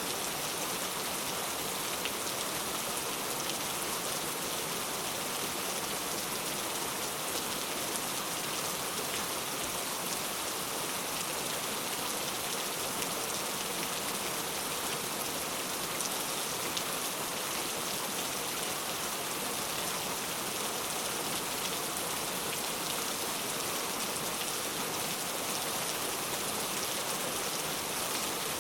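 Steady rain falling, a constant hiss with many fine drop patters.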